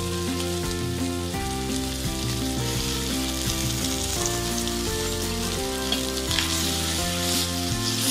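Pork slices, onion, ginger and garlic sizzling as they fry in a stainless steel pan, just after soy sauce has gone in, over background music.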